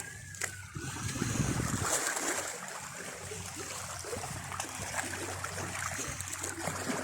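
Sea waves washing onto the shore, a steady rush with a louder swell about a second in.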